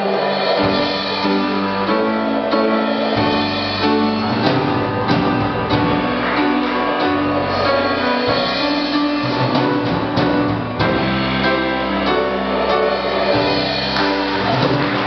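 Instrumental music from the show's band, playing held chords and a melody with no singing.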